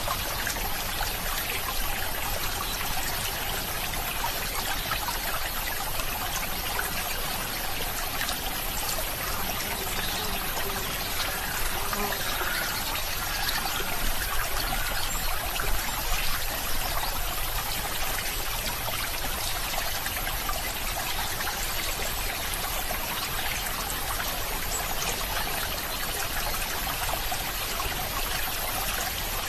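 Running water trickling steadily, a small stream flowing, a little louder about halfway through.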